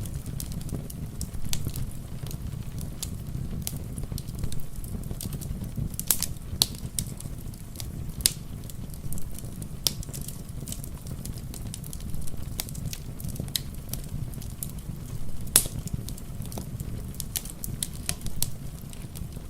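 Wood fire in a fireplace crackling, with frequent irregular sharp pops, the loudest about fifteen seconds in, over a steady low rumble.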